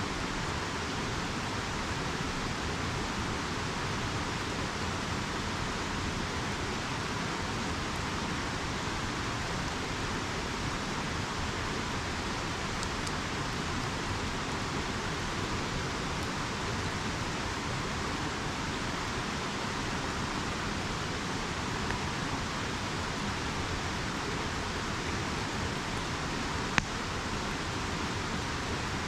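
A river's steady rushing flow, with one sharp pop from a wood campfire near the end.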